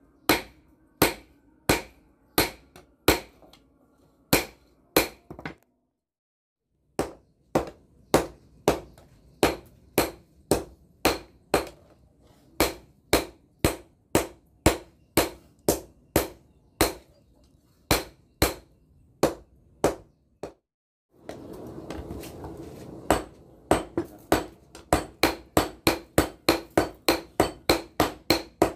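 Hammer blows on hot bearing steel being forged into a blade, struck in a steady rhythm of about two a second. There are two brief breaks. Near the end a steady hiss runs underneath and the blows come faster, about three a second.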